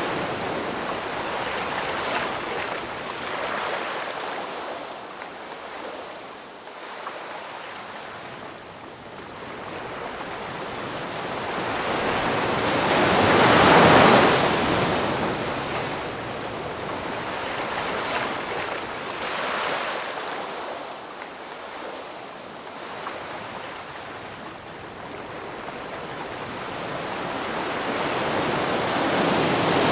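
Ocean surf: waves rising and falling in slow surges of rushing water, the biggest wave breaking about halfway through and another building near the end.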